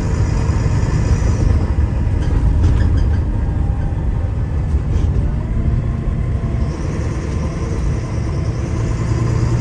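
Diesel engine of a Wright Gemini 2 double-decker bus running under way, heard from inside the bus as a steady low rumble over road noise. A high whine sits over it at the start, fades, and comes back about two-thirds of the way through.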